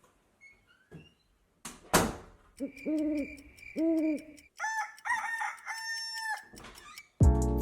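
Bird calls: a sharp knock, then two short low hoots and a higher, longer call. Music with a strong beat begins near the end.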